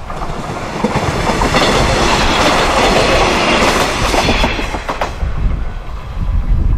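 Pair of coupled old-type diesel railcars passing by, their sound swelling to a peak and fading away within a few seconds, with wheels clicking over rail joints.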